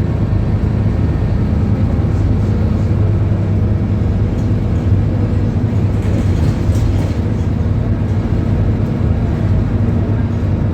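Scania K280UB bus's DC9 nine-litre five-cylinder diesel engine running steadily, with an even low hum.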